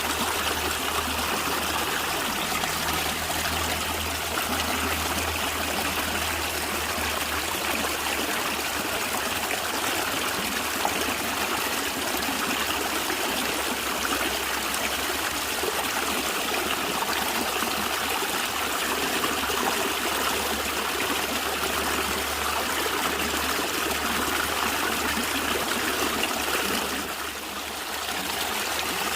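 Natural running water gurgling steadily, dipping briefly in level near the end.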